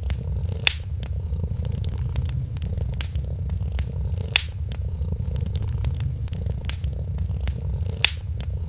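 Cat purring steadily, close up, over the crackle of a wood fire, with three louder pops from the fire.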